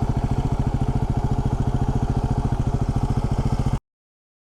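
Yamaha WR250R's single-cylinder four-stroke engine idling steadily with an even beat, cutting off abruptly near the end.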